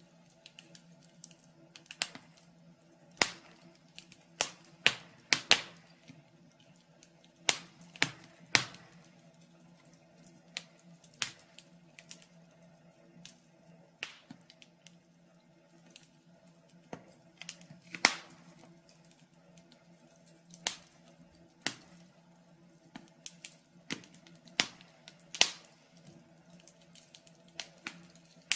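Wood fire in a fireplace crackling, with sharp pops and snaps at irregular intervals, some much louder than others, over a faint steady low hum.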